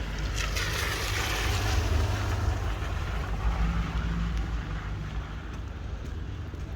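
Wind rumbling on the microphone during a walk in the rain, with a rushing hiss that swells over the first two seconds and then fades.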